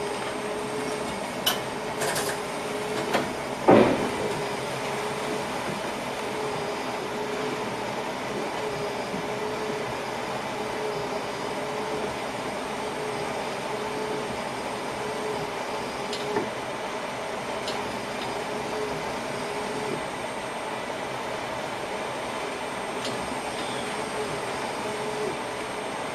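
Inside the driver's cab of a moving electric train: steady running noise with a wavering hum, a few sharp clicks in the first seconds and one louder knock about four seconds in.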